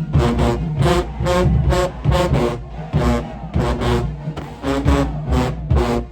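Marching band playing short, punchy brass chords in quick rhythm over heavy drums and low tubas.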